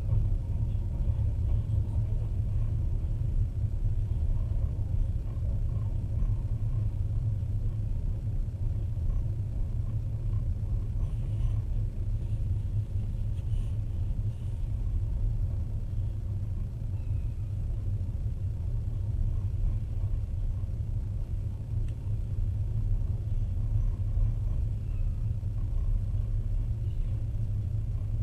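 Steady low rumble of a moving passenger train heard from on board, its wheels rolling along the rails.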